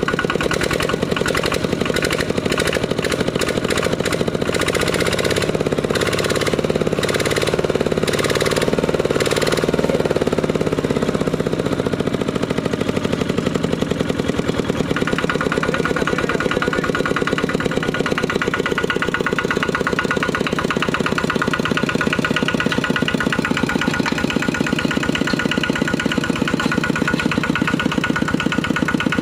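Kubota RT120 single-cylinder 12-horsepower diesel engine running with a rapid, even chug. There is extra clatter over it for about the first ten seconds, then it runs steadily.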